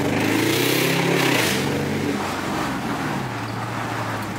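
Dodge Charger SRT8's 6.4-litre HEMI V8 accelerating, heard from inside the cabin. The engine note climbs for about a second and a half, then drops and runs steady at a lower pitch.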